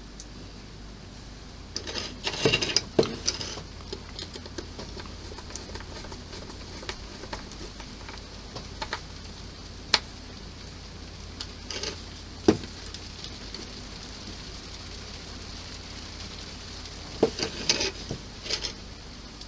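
Small plastic and metal model-kit parts clicking and rattling as they are handled and screwed together: a cluster of clicks and rattles about two seconds in and another near the end, with a few single sharp clicks between.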